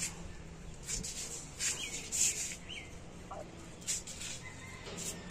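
A few short, faint bird calls over light rustling and handling noise.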